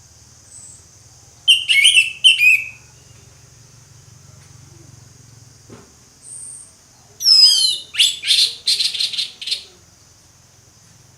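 Orange-headed thrush singing loud, clear song: two short phrases about a second and a half in, then a longer run of quick, varied notes from about seven seconds in. A steady high-pitched hiss runs underneath.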